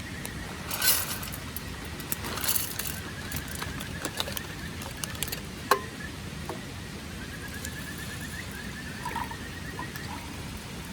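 Camping gear being handled, with a few rustles and light metallic clinks, one sharp clink about halfway through. A faint, rapid high trill comes and goes in the background.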